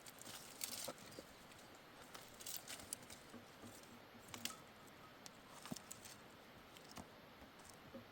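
Faint, scattered clicks and rustles over a quiet background, a few at a time with pauses between them.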